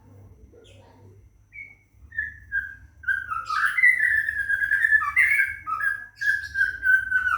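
Scarlet minivet (sepah raja) singing: a few short whistled notes, then from about three seconds in a loud, unbroken run of quick whistled phrases.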